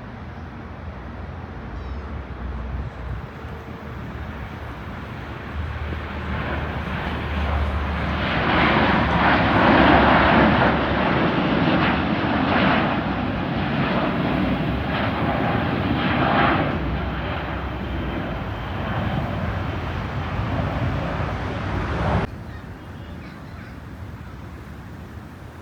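Jet airliner engines. The roar builds over a few seconds, is loudest as the plane passes closest, stays strong for a while, then cuts off suddenly a few seconds before the end.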